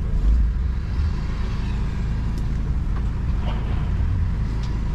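Steady low machine rumble, swelling louder briefly just after the start, with a few faint light ticks over it.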